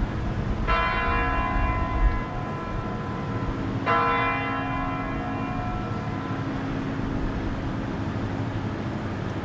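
A large tower bell strikes twice, about three seconds apart, and each stroke rings on and slowly fades. These are the Kremlin Spasskaya Tower chimes striking the hour.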